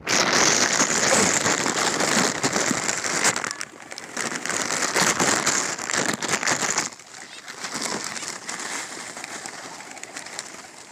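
A large flock of birds clamouring as they crowd in for thrown food: a dense, loud mass of calls and clicks that starts abruptly, holds for about seven seconds, then thins out.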